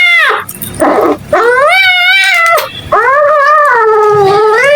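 Agitated cat yowling in two long, wavering calls, after a short breathy noise about half a second in.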